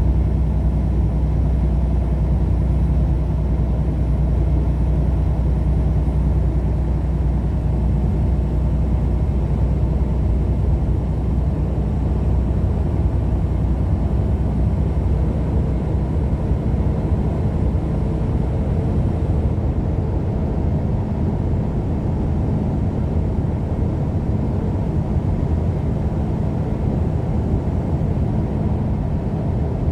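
Vehicle driving at highway speed, heard from inside the cab: a steady low rumble of engine and tyre noise.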